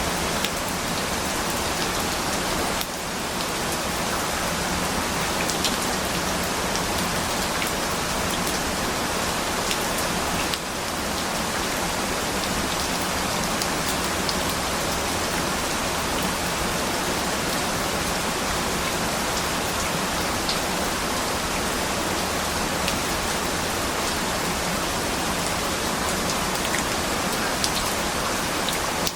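Steady rain falling on a surface, an even hiss with scattered sharp drop ticks; the level dips briefly twice, about 3 and 11 seconds in.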